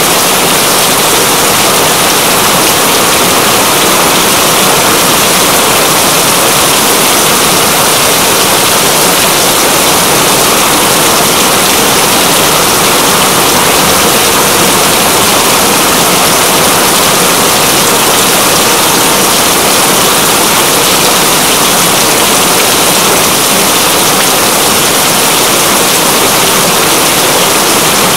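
Steady rain, a dense even hiss that does not change.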